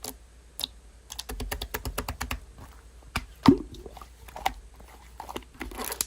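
Slime being pressed and squished, with a run of quick sharp clicks and pops about a second in, then scattered single pops.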